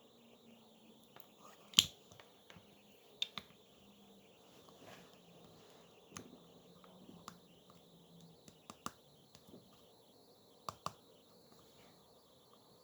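Scattered sharp clicks and light taps, about eight in all, the loudest about two seconds in, over a faint steady high hiss.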